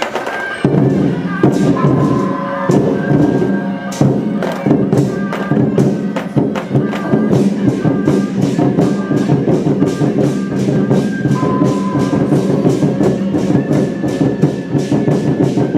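Lion dance band of drum, cymbals and gongs playing a steady, rapid beat, with a reed horn (suona) holding sustained notes over it.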